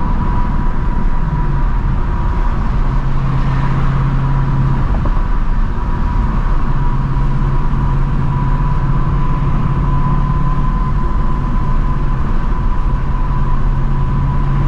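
2024 Ford Mustang GT's 5.0-litre V8 with its stock active exhaust running steadily while cruising, with road and tyre noise underneath. The engine note eases briefly about five seconds in, then comes back at the same pitch.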